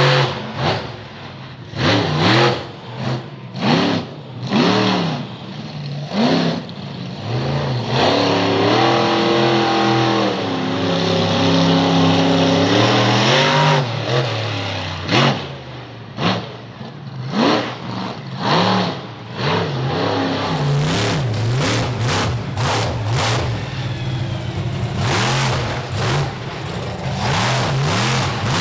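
Monster truck engine revved hard in a run of short bursts, held high with a wavering pitch for several seconds midway, then back to quick throttle blips over a deeper rumble near the end.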